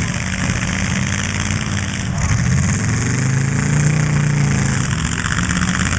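Demolition derby car engines running hard as the cars push against each other, a loud racket whose pitch climbs and falls back near the middle.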